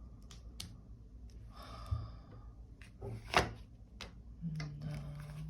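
Tarot cards being handled on a table: a few soft clicks and taps, a brief rustle about two seconds in, and one sharper tap about three and a half seconds in. A short hummed "mm" of voice comes near the end.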